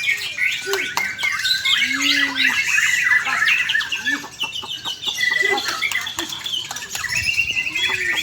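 White-rumped shama (murai batu) singing a fast, varied song of whistles, chattering phrases and sharp clicking notes, with a run of rapidly repeated notes near the end.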